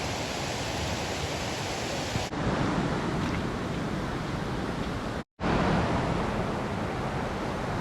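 Steady rushing noise outdoors, in short takes spliced together: it changes abruptly a little past two seconds in and drops out briefly to silence a little past five seconds in.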